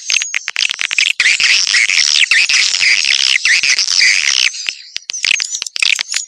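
Swiftlet call recording used as a lure to draw wild swiftlets into a swiftlet house: many swiftlets twittering in quick high chirps, packed densely for most of the stretch and thinning to separate sharp chirps and clicks about four and a half seconds in.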